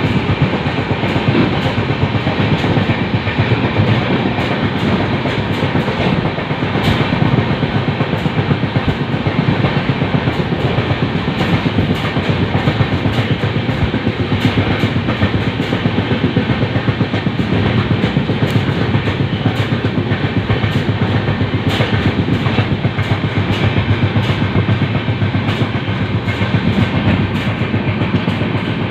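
LHB passenger coach running at speed on the rails: a steady rumble with rapid, irregular clicking and rattling from the wheels and track.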